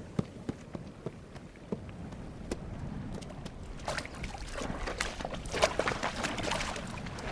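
Horses wading in a shallow waterhole, their legs splashing and sloshing through the water. There are a few scattered knocks in the first seconds, and the splashing grows louder and busier from about four seconds in.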